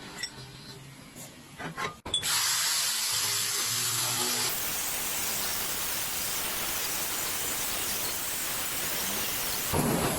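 A power tool starts about two seconds in and runs steadily and loudly as an even, hissing noise. The sound changes character just before the end.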